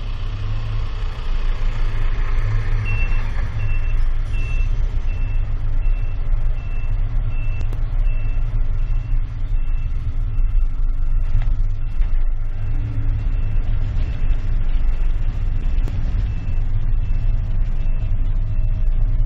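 Car driving, a steady low engine and road rumble. From about three seconds in, a short high electronic beep repeats about once every three-quarters of a second, stopping shortly before the end.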